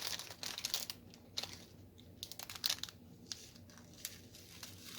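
Light crinkling and scattered small clicks, coming in little clusters, from diamond painting work: the canvas's cover paper being handled and diamond drills being tapped into place.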